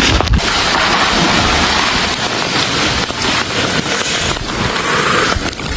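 Heavy rain falling steadily and hitting hard surfaces, a dense hiss of countless drops, in a storm of freezing rain and sleet.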